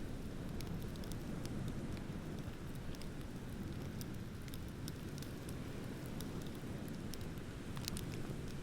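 Wood bonfire crackling, scattered sharp pops over a steady low rush, with a couple of louder pops near the end.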